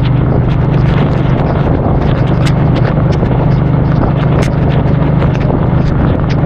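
Suzuki Boulevard C50's 800 cc V-twin engine running at a steady pitch while riding, under a rush of wind on the microphone. Raindrops hit the microphone as many small scattered ticks.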